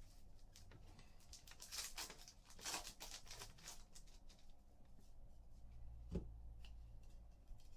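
Panini basketball trading cards being slid and flipped through by hand: faint soft swishes about two to four seconds in, then a single low thump about six seconds in.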